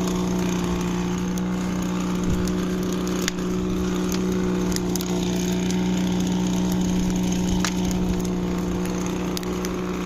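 Campfire wood crackling, with scattered sharp pops, over a steady low hum.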